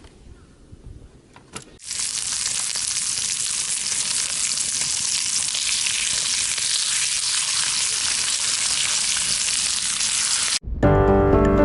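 Food frying in a hot pan: a dense, steady sizzle that starts abruptly about two seconds in and cuts off shortly before the end.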